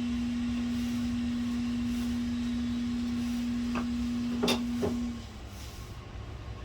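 A steady low electrical hum on one pitch, cutting off about five seconds in, with three short clicks just before it stops.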